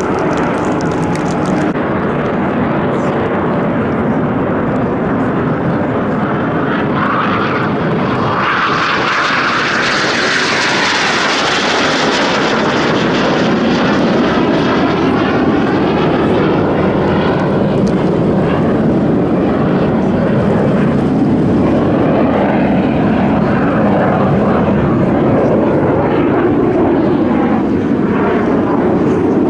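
Continuous jet engine noise from Aermacchi MB-339 PAN aerobatic jets flying the display. A louder, brighter pass builds about eight seconds in, peaks a few seconds later and fades slowly with a sweeping, wavering sound.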